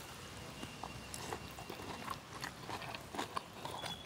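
Faint chewing and small mouth clicks of people eating rice and raw beetroot sambal by hand, with a thin high tone held through about the first two seconds.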